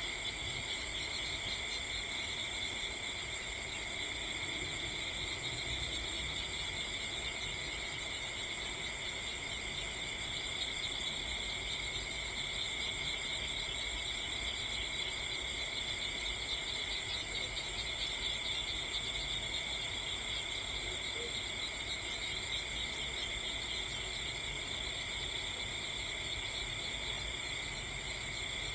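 Steady chorus of insects trilling without pause at several pitches at once, over a faint low rumble.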